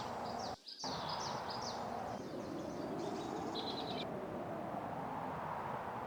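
Steady outdoor ambience with a small bird twittering in quick, repeated high chirps for about the first four seconds; the ambience drops out briefly under a second in.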